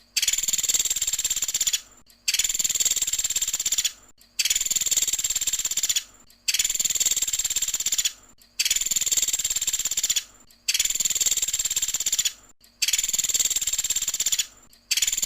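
Pelatuk sampit woodpecker call: a high, fast rattling trill about two seconds long, repeated seven times with short gaps at an even pace.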